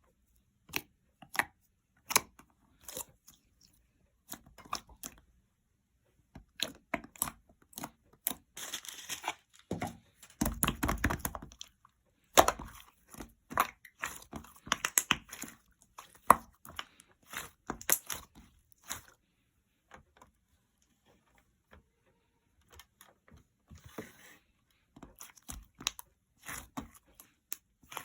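Slime being worked by hand: irregular sharp clicks, pops and crackles, with a denser stretch of crunchy crackling about nine to twelve seconds in.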